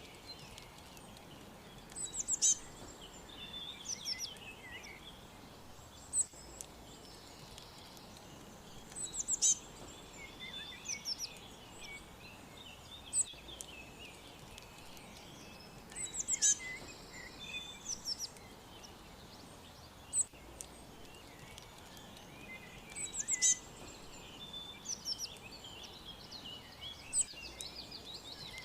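Songbirds chirping and trilling, short phrases of high, quick downward-sweeping notes repeating every few seconds, over a steady faint background hiss.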